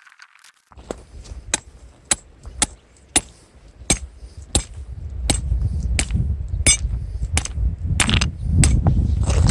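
A steady series of sharp taps or knocks, about two a second, over a low rumble that gets louder in the second half.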